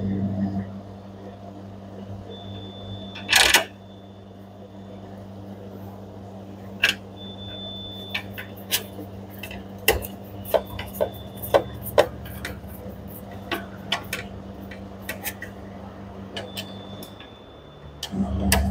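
Steady electrical hum of a newly fitted washing-machine control-board cooling fan motor running, a sign that the replacement fan works. Scattered clicks and taps sound over it, with one louder short noise about three and a half seconds in.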